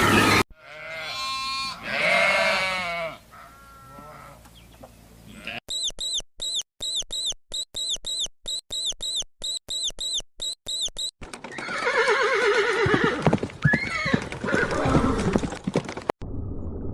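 A string of different animal calls, edited back to back: first a bleat-like call with a wavering pitch, then a run of short high chirps about twice a second, then a rougher call with a rising and falling sweep.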